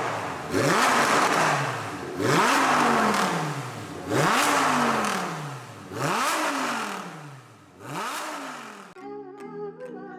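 Lamborghini Huracán Performante's V10 engine revved five times through a loud aftermarket exhaust, each blip rising sharply and falling back over about a second and a half. Music starts near the end.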